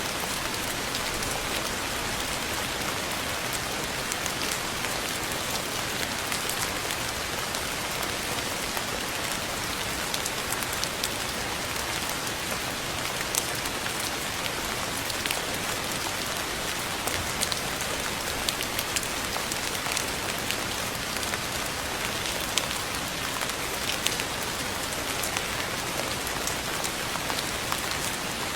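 Steady rain falling: an even hiss with sharp ticks of individual drops landing scattered throughout.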